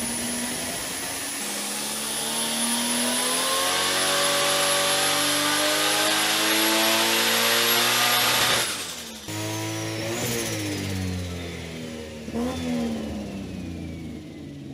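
Turbocharged Toyota 2JZ-GE VVTi 3.0-litre straight-six on an engine dyno, making a full-load pull: the revs climb steadily for about eight seconds with a high whistle rising along with them. The power cuts off suddenly, and the engine winds down with two short blips of revs as the whistle falls away.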